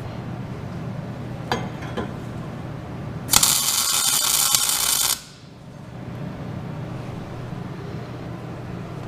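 A short tack weld on square tube: a welding arc crackles for about two seconds, then cuts off sharply. Two light metal clinks come before it.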